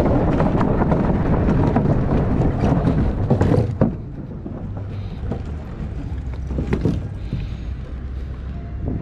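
Wind rushing over the microphone while riding, heavy at first, then dropping suddenly about four seconds in to a quieter low rumble with a few scattered clicks.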